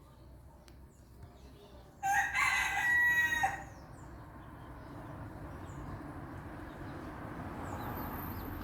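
A rooster crows once, about two seconds in, lasting about a second and a half. After it, a steady hiss of rain slowly grows louder, with a few faint high chirps.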